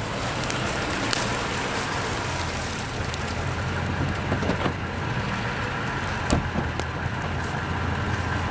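Steady low drone of a vehicle's engine and road noise, with a hiss of rain and a few light ticks.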